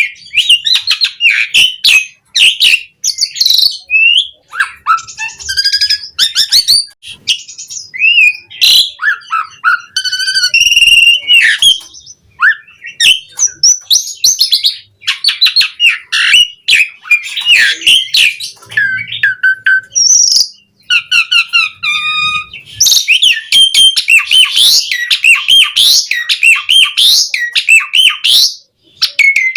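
Asian pied starling (jalak suren) in full, vigorous song: a nearly unbroken run of varied whistles that glide up and down, fast chatters, trills and clicks, packed most densely near the end.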